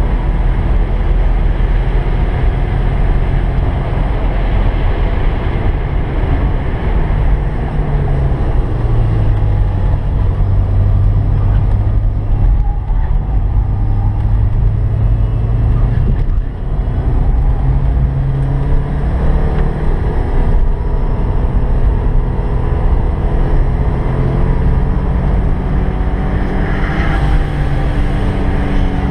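In-cabin sound of a 1986 Porsche 944's naturally aspirated 2.5-litre inline-four driven hard on track. The engine note falls about eight seconds in as the car slows for a corner, stays low through the bend, then rises steadily as the car accelerates out.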